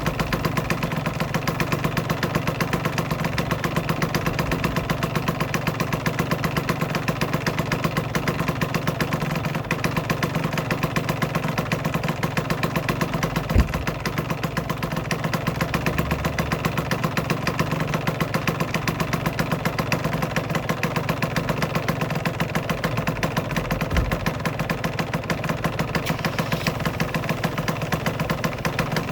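Aprilia RS125's single-cylinder two-stroke engine idling steadily in a rapid, even beat, with two brief low thumps, one about halfway through and one near the end.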